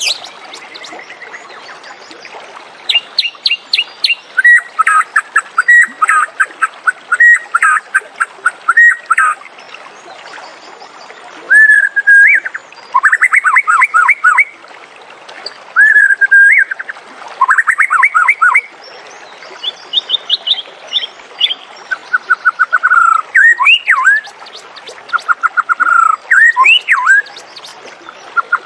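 White-rumped shama singing: a series of loud phrases, each a fast run of repeated notes or a few rising and falling whistles, with short pauses between them.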